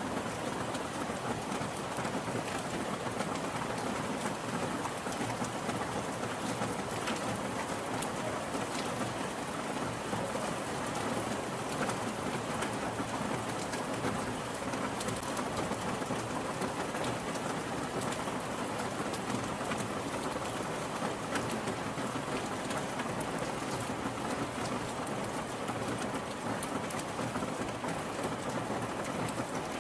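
Steady rain falling, an even hiss with sharp drop ticks scattered through it.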